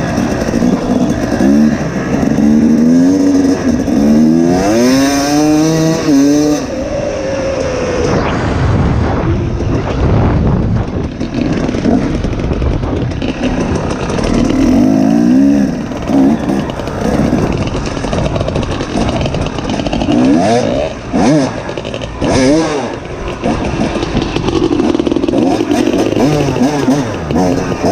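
Two-stroke dirt bike engine ridden hard, revving up through the gears and dropping back again and again, with a low rumble of wind underneath.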